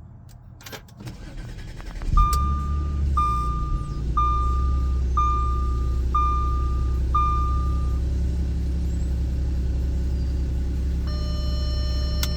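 Cold start of a 2011 Audi S4's supercharged 3.0-litre V6: after a couple of clicks the engine catches about two seconds in with a brief flare, then settles within a couple of seconds into a steady idle. A car warning chime beeps six times, about once a second, while the engine settles, and a steady high tone comes in near the end.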